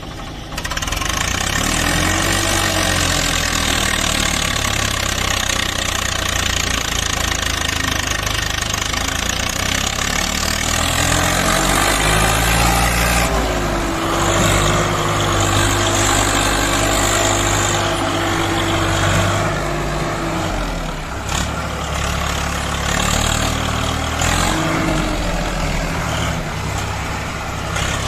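Swaraj 855 FE tractor's diesel engine running under load, hauling a fully loaded trolley, with a constant rattling noise over it. The engine note rises about two seconds in, climbs again around twelve seconds and holds high, drops near twenty seconds, and rises briefly again near the end.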